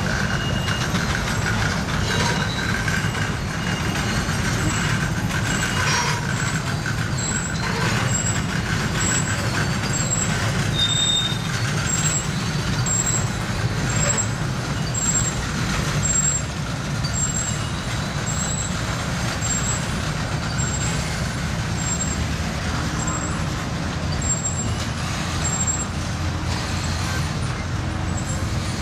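Loaded steel coil cars of a freight train rolling past on the rails, a steady heavy rumble with a thin wheel squeal through the first half.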